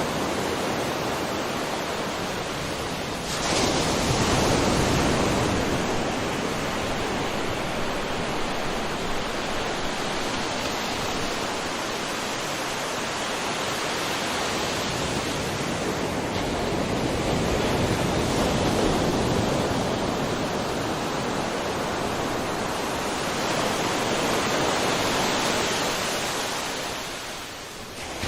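Sea surf washing on a shore: a continuous rush of water that swells sharply as a wave breaks about three seconds in, rises again twice later, and falls off briefly near the end.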